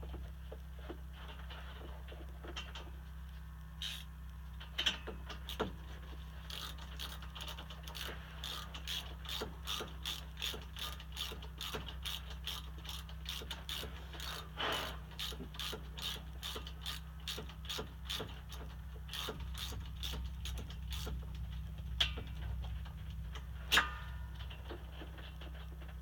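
Socket ratchet wrench clicking in a steady run of a couple of clicks a second as a spark plug is screwed back into the engine's cylinder head, with a few louder knocks of the tool.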